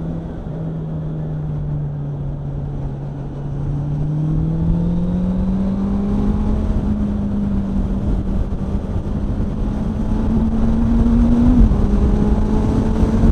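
Motorcycle engine on the move, running steadily, then climbing in pitch as it accelerates about four seconds in and holding at the higher note, with a brief dip in pitch near the end.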